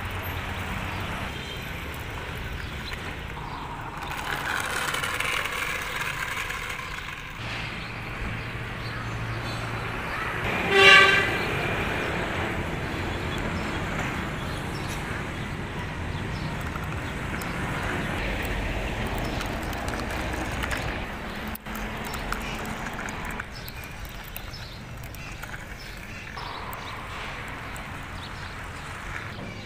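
Vehicle engine and driving sounds that change every few seconds, with one loud horn toot about eleven seconds in.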